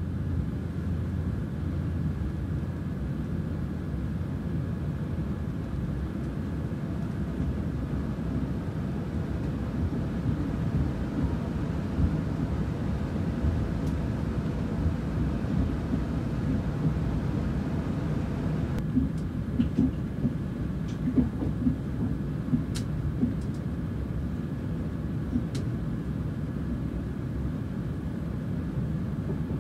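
Cabin noise inside a Chiltern Railways Class 168 HybridFLEX diesel-battery hybrid train on the move: a steady low rumble of wheels on track, with no loud engine note. It is the quiet ride that the hybrid is known for. About two-thirds of the way through, a few faint clicks and short squeals come from the running gear.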